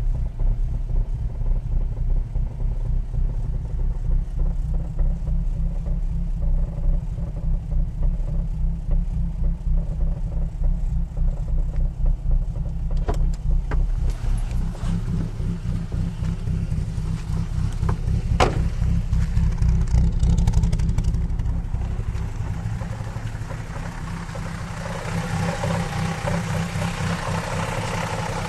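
Ford car engine idling with a repetitive knock that has appeared recently and occurs only at idle, seemingly from the front left of the engine bay; its cause is unknown to the owner. A few sharp clicks are heard about halfway through.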